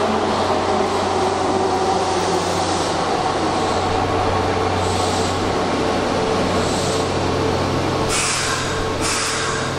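Keihan commuter train running into an underground station platform and slowing, a steady rumble of wheels and running gear echoing in the tunnel. Near the end come a few short hisses of air.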